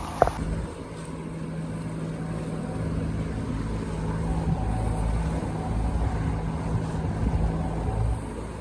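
A catamaran's engine running steadily with a low drone while motor sailing, heard aboard. A sharp click sounds just after the start.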